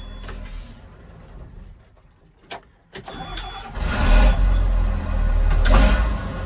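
John Deere 6081H six-cylinder diesel shut down and winding to a stop, then a click, and a restart about three seconds in: it cranks briefly, catches, and runs loudly.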